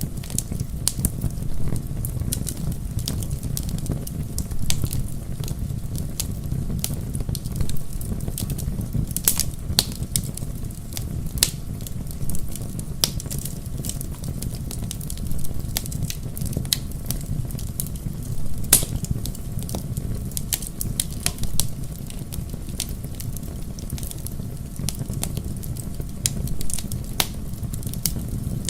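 Bonfire burning: a steady low rumble of flames with frequent irregular crackles and pops from the burning wood, two sharper pops about nine and nineteen seconds in.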